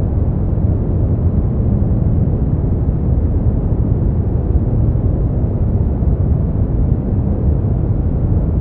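Steady brown noise: an even, deep rumbling hiss with most of its weight in the bass and little above a few thousand hertz, unchanging in level.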